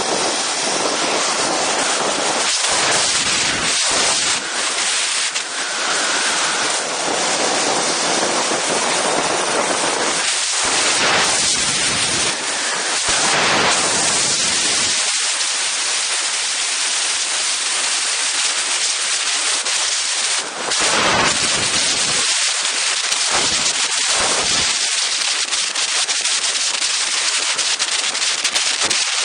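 Strong wind blowing across an Insta360 One X camera's microphone: a loud, even hiss with low buffeting gusts that come and go.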